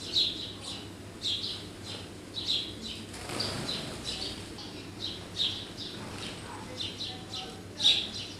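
Small garden birds chirping, short sharp calls repeating about once or twice a second. A brief rush of noise cuts across them about three seconds in.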